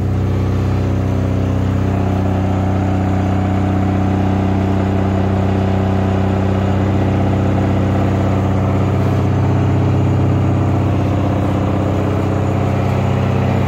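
Samsung washing machine running with a loud, steady low hum and drone. The owner says it makes the whole house vibrate.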